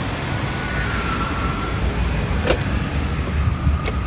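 Semi truck's diesel engine running, a steady low rumble, with two sharp clicks about a second and a half apart near the end.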